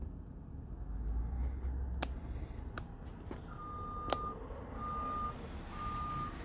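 School bus reversing alarm beeping about once a second, starting about three and a half seconds in, over the low rumble of the bus engine. A few sharp clicks sound in between.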